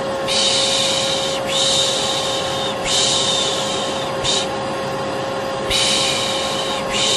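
Vacuum cleaner running with a steady hum, overlaid by a person's repeated long 'shhh' shushes, about a second each, with a short one in the middle and a pause of about a second before the last two.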